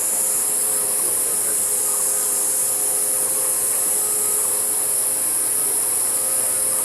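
A steady, high-pitched insect chorus, most likely cicadas, going on without a break.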